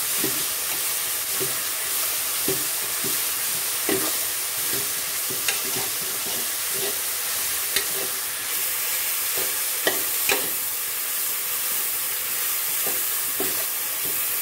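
Green gram microgreens sizzling in oil in a metal pot while a metal spoon stirs them, a steady hiss with irregular clicks and scrapes of the spoon against the pot.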